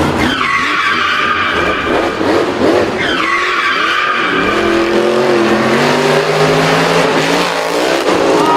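Race-car engines revving with tyre skids: two high engine notes drop sharply in pitch about three seconds apart, then a lower, steadier engine note runs through the second half.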